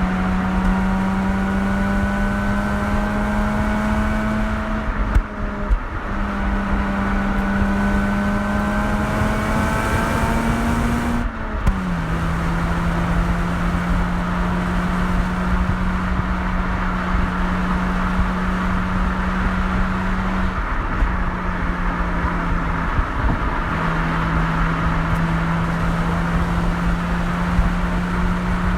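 Mazda RX-8's two-rotor rotary engine through its exhaust under a steady pull, rising in pitch. The pitch drops at gear changes about five and eleven seconds in, then holds steady at cruise.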